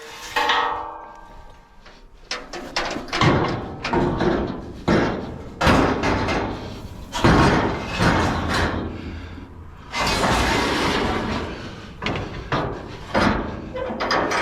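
Heavy scrap metal being shifted by hand: a string of irregular loud clanks, bangs and scrapes, with brief music fading out at the very start.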